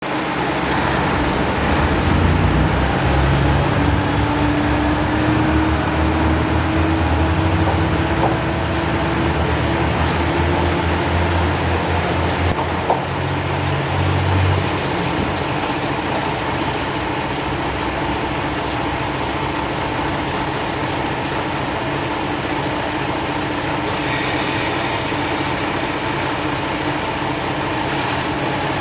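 Diesel railcar train running under power, its low engine drone rising slowly in pitch as it gathers speed. The engine note drops away about halfway through, leaving a steady rolling rumble. A higher hiss sets in near the end.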